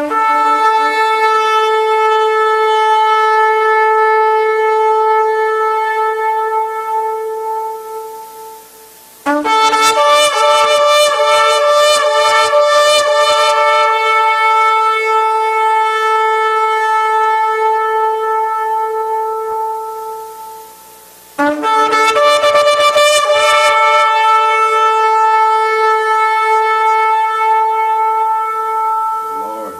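Shofar blown in three long blasts, each a steady held note that tapers off. The second, about nine seconds in, and the third, about twenty-one seconds in, open with a rough, fluttering attack before settling.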